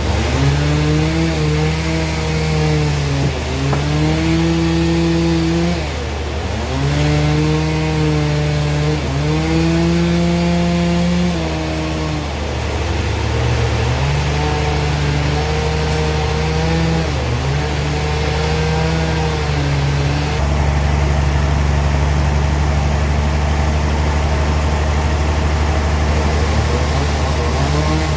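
Sawmill band saw (gergaji selendang) running, its pitch sagging and recovering every few seconds as the blade loads up in the cut. About two-thirds of the way through it settles into a steady tone over a heavier low hum.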